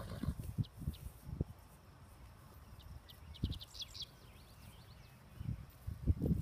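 Open-field ambience: a small bird gives a quick run of high chirps about halfway through. Low, gusty rumbling of wind on the microphone comes and goes, loudest at the start and again near the end.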